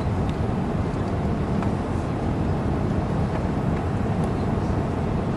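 Cabin noise on the main deck of an Airbus A380 in flight after takeoff: a steady low rumble of airflow and engines, with a few faint clicks.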